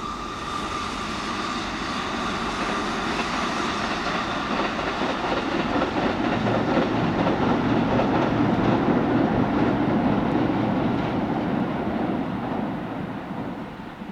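Kintetsu electric train passing, growing louder to a peak about two-thirds through and then fading.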